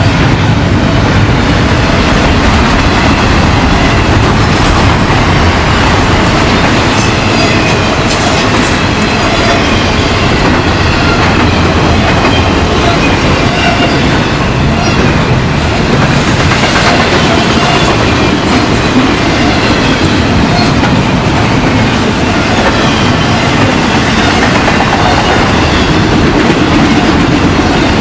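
Railroad cars rolling past, loud and steady, with a continuous clickety-clack of wheels over the rail joints and some wheel squeal.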